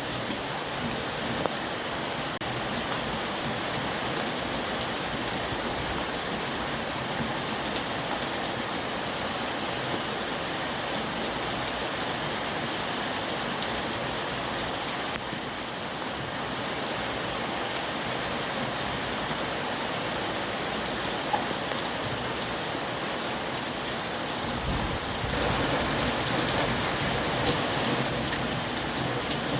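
Heavy rain falling steadily, growing louder near the end.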